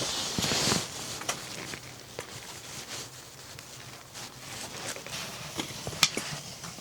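Handling noises: scattered light clicks and taps, with a brief rustle about half a second in.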